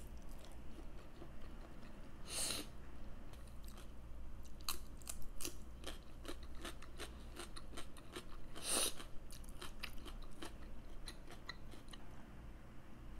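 A person chewing pork and vegetables, with a steady run of short wet mouth clicks. Two louder, longer bites come about two and a half seconds in and near nine seconds.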